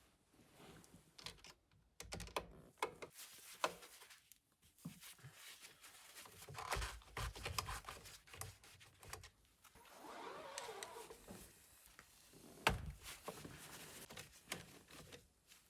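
Scattered small clicks, taps and scrapes of hand tools undoing the Torx screws that hold the steering-wheel airbag.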